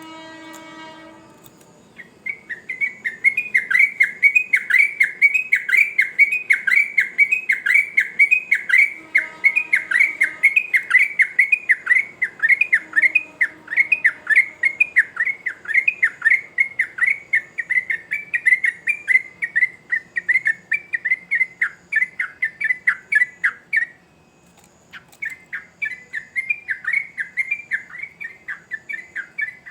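Sooty-headed bulbul (trucukan) singing a long, fast rolling song of quickly repeated chirping notes, about four or five a second. The song breaks off for about a second near the end, then starts again. A short low tone is heard just before the song begins.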